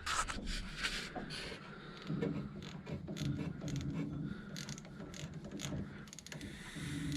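Ratchet socket wrench clicking in quick runs as a bolt is worked loose, with a few louder knocks of metal near the start.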